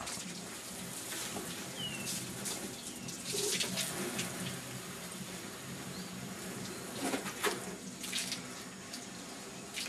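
Water from a hose spraying onto a car's bodywork: a steady hiss that swells in louder bursts a few times as the spray moves.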